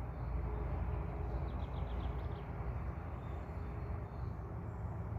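Outdoor ambience dominated by a steady low rumble, with a bird giving a quick series of about five short high chirps about two seconds in.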